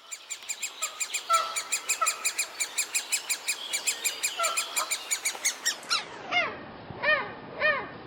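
Great spotted woodpecker nestlings begging from the nest hole: a rapid, even run of short calls, about seven a second. About six seconds in, the calls turn slower and lower, stretched out as the recording is slowed to slow motion.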